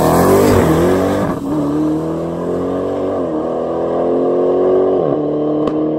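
A car engine accelerating hard through the gears: its pitch climbs and drops sharply at each upshift, four times, with the gaps between shifts growing longer as the car gains speed.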